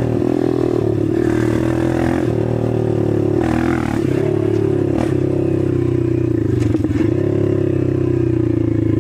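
Dirt bike engine running at steady moderate revs while being ridden, the pitch dipping briefly a few times as the throttle eases and picks up again.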